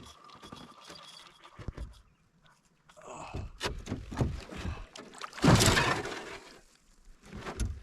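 Irregular knocks and thumps against a small fishing boat as a big pike is brought aboard, with a louder rushing burst, like thrashing or splashing, about five and a half seconds in.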